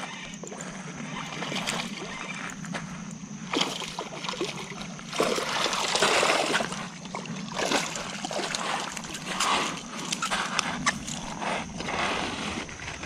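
Irregular bursts of water splashing and sloshing from a hooked smallmouth bass thrashing at the surface while it is played in. The loudest splashing comes about five to seven seconds in, with more around nine to ten seconds.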